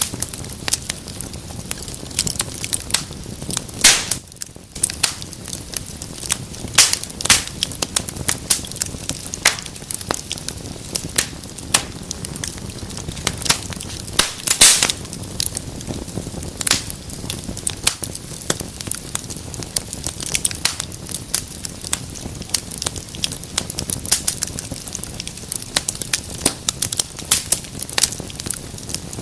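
Wood fire burning in a fireplace: irregular crackling and popping over a low steady hiss, with a few louder pops about four seconds in and again about fourteen and a half seconds in.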